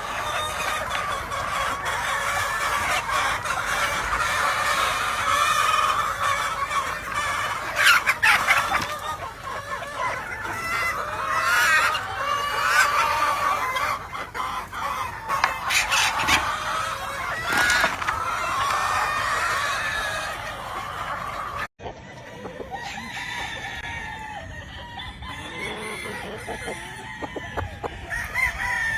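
Many roosters crowing over one another, with chickens clucking. There are louder crows around 8, 13 and 17 seconds in. Just past 20 seconds the sound cuts out for an instant and comes back quieter.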